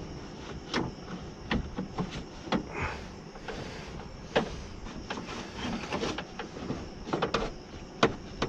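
Window glass and regulator hardware inside a car door being shoved by hand: a dozen or so irregular clicks and knocks with a few short scrapes.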